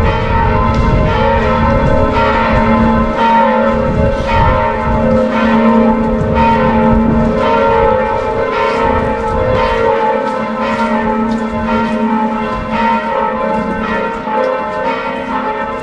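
Church bells ringing, many overlapping strikes sounding one after another and hanging on.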